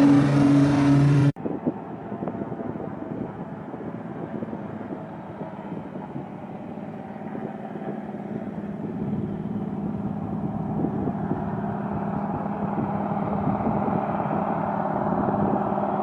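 A loud engine hum cuts off abruptly about a second in. It gives way to a muffled aircraft engine droning steadily and slowly growing louder.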